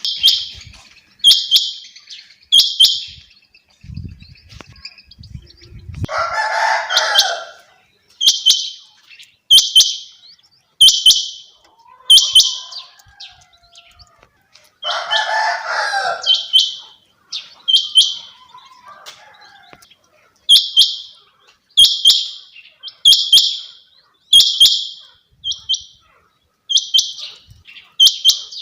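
Female quail calling: a short, high call repeated over and over, roughly once every second and a bit. Twice a longer, lower call from another bird breaks in.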